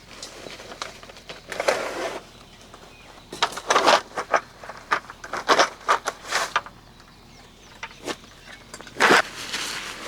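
Irregular bursts of rustling and scraping, in four or five clusters with quieter gaps between.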